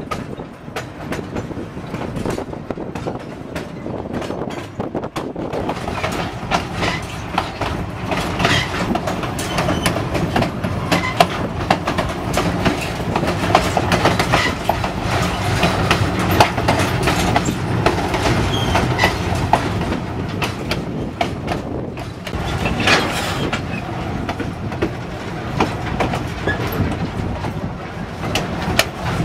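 Narrow-gauge steam train's passenger cars rolling along the track, heard from on board: a steady rumbling clatter of wheels over the rails, with many sharp clicks throughout.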